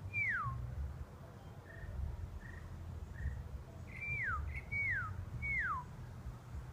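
A bird singing clear whistled notes that each slide smoothly down in pitch: one at the start, then a run of three about four seconds in, with a few short faint notes between. A low steady rumble runs underneath.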